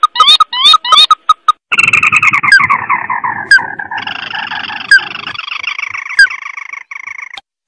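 Crake lure calls from a playback recording: quick repeated sharp notes and squiggly calls. Then, from about two seconds in, a long dense chattering trill slides down in pitch, a higher chattering layer joins about four seconds in, and a single sharp chip note sounds every second or so.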